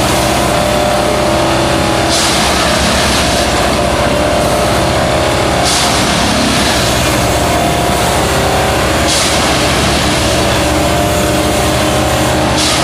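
Railway track maintenance machine running steadily and loudly, with a short hiss about every three and a half seconds.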